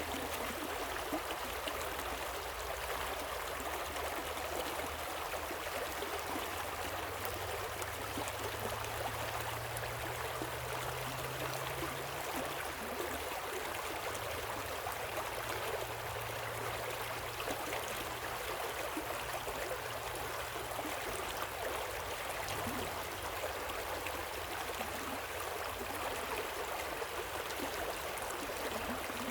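Flowing water of a river and waterfall: a steady, even rush with no breaks.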